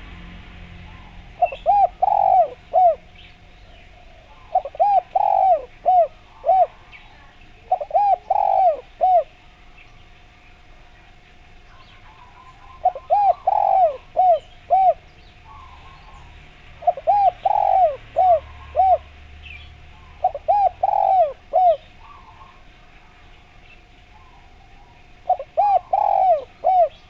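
Spotted dove (derkuku, tekukur) singing its cooing song: seven phrases, each a quick run of several rounded coo notes, repeated every few seconds. Faint chirps of small birds sound in the background.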